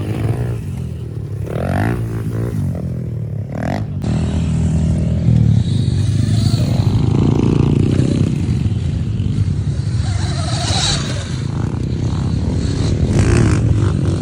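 Small 110cc pit bike engine being ridden, revving up and down in the first few seconds, then running hard and steady.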